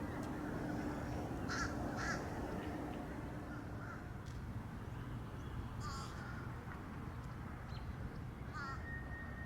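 Crows cawing, several short calls spread a second or two apart, over a steady low background rumble.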